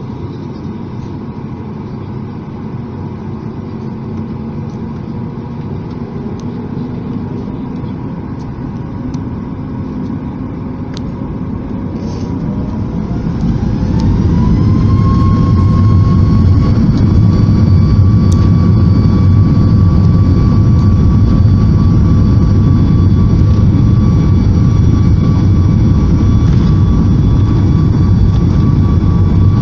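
Boeing 737 MAX 8's CFM LEAP-1B jet engines heard from inside the cabin, spooling up to takeoff thrust. Partway through, a whine rises in pitch while the engine noise grows much louder, then both hold steady: the start of the takeoff roll.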